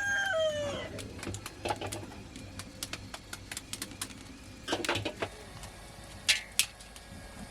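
A rooster's crow trails off and drops in pitch in the first second, followed by scattered light clicks and a few short knocks.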